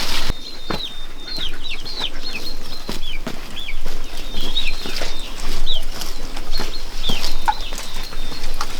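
Poultry calling: a steady run of short, high, down-sliding peeps, with scattered light knocks.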